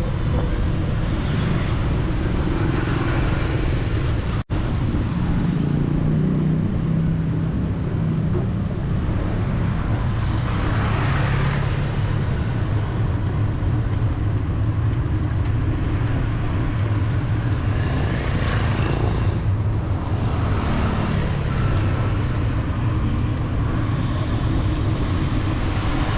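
Steady city street traffic heard from a bicycle, with engines humming and vehicles swelling past several times. The sound drops out for an instant about four and a half seconds in.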